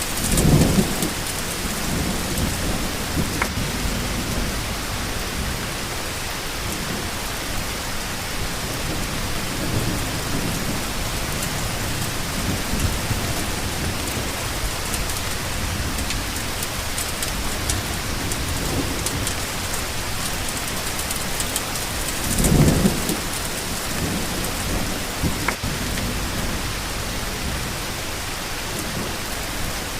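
Steady rain, with low rumbles of thunder, the strongest right at the start and another about two-thirds of the way through.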